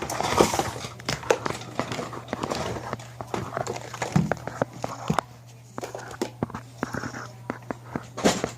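Irregular clatter of plastic toys being handled and dropped in while a room is tidied: scattered knocks and clicks of varying loudness over a steady low hum.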